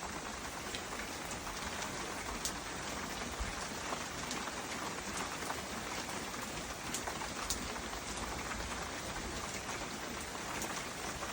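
Heavy rain pouring down steadily, with scattered sharper ticks of single drops striking close by.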